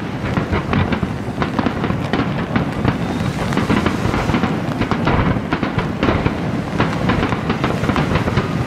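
Fireworks display: many aerial shells bursting in quick succession, their bangs running together into a continuous rumble with sharp crackling throughout.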